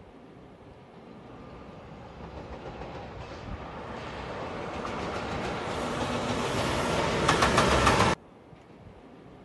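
JR Freight EF210 'Momotaro' electric locomotive hauling a container freight train, approaching and growing steadily louder, with wheels clattering on the rails as it comes alongside. The sound drops off suddenly about eight seconds in.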